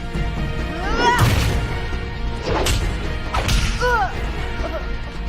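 Animated fight-scene soundtrack: a dramatic music score under about three hard punch-and-crash impacts, with short vocal cries between them.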